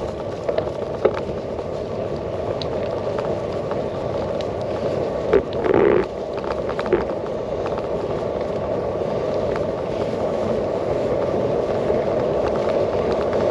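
Bicycle riding heard from a handlebar-mounted camera: steady tyre noise and wind rush, with small rattles and clicks from the bike over the track, and a louder clatter about six seconds in.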